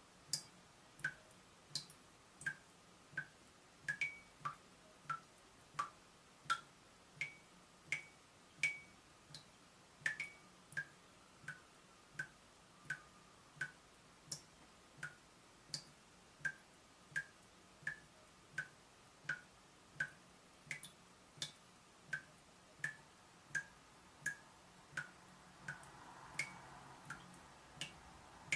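Water dripping from a leaking tap: a steady run of single drops, about three every two seconds, each a short high plink.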